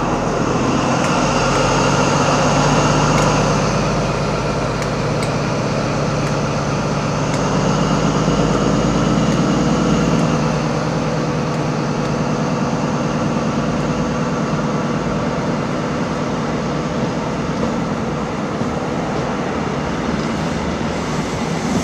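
InterCity 125 (HST) diesel train running: a steady engine drone under a high, steady whine, swelling twice.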